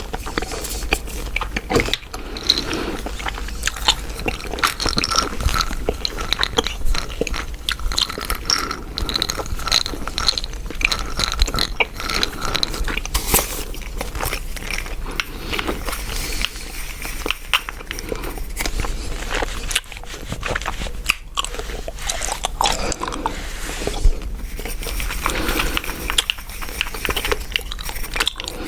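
Chewing gum close to the microphone: a steady run of small sharp clicks and smacks.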